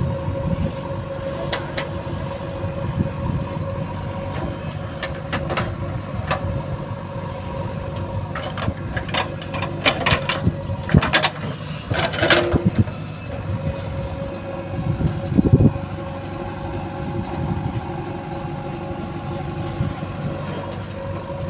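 JCB 3DX backhoe loader's diesel engine running steadily, with a run of sharp knocks and clanks around the middle and a heavier thump a few seconds after them.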